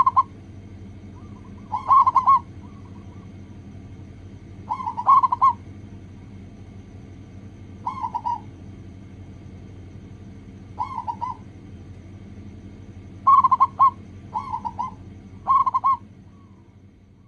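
Zebra doves cooing: about eight short bursts of rapid, rippling coos, a few seconds apart, over a steady low hum.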